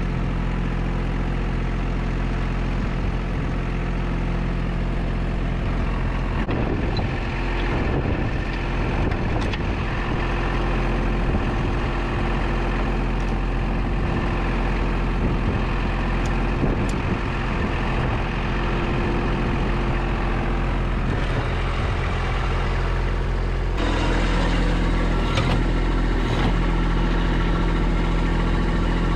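Kubota B2601 compact tractor's diesel engine running steadily, with some faint knocks along the way. It gets a little louder about three-quarters of the way through.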